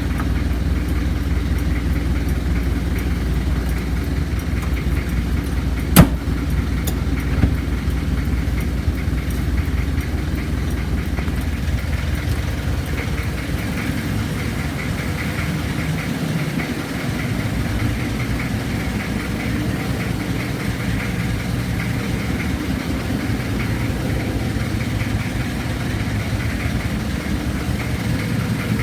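A 1994 Kia Ceres truck's 2.4-litre diesel engine running steadily with a diesel clatter, its low note shifting a little just past halfway. A sharp click about six seconds in is the loudest sound.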